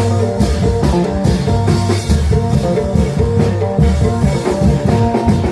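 Isan klong yao folk band playing a lively procession tune: a plucked phin lute picks out a fast melody over a steady beat of drums.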